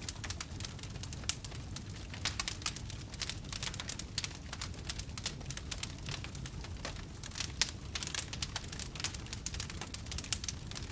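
Wood fire crackling: many irregular sharp pops and snaps over a low steady rumble of burning.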